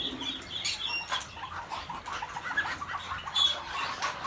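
Caged birds chirping in short, scattered calls, with a few brief clicks.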